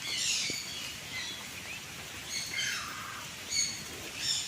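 Several birds calling, a string of short high-pitched chirps and squawks about once a second.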